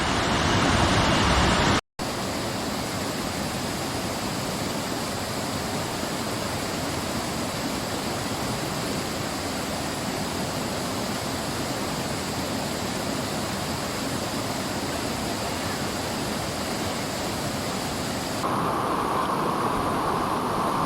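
Steady rushing of water from a waterfall or fast river, an even noise without pitch; it cuts out briefly about two seconds in, and its character shifts near the end.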